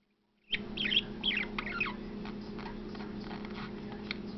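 Pet budgerigar chirping: a quick run of short chirps and warbling glides starting about half a second in, then softer scattered chirps. A steady low hum runs underneath.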